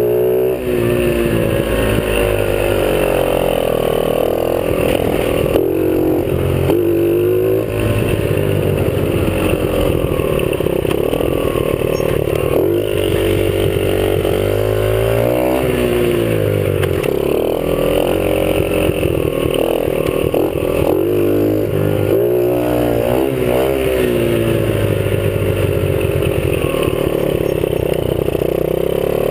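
Small 50cc dirt bike engine under way, revving up and easing off over and over as the rider works the throttle, heard from the rider's chest.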